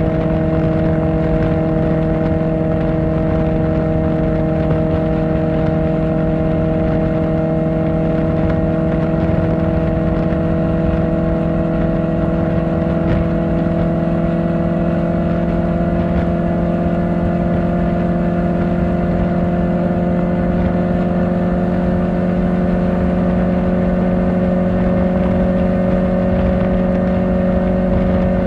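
Kawasaki Ninja ZX-4R's inline-four engine through an Akrapovic exhaust, running at steady cruising revs while riding, its pitch rising slowly and slightly.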